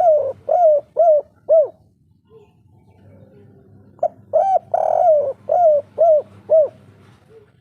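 Spotted dove (tekukur) cooing in the 'kuk 3' style. One phrase ends about a second and a half in with three short coos. A full phrase follows about four seconds in: a few short notes, one longer coo, then three short closing coos.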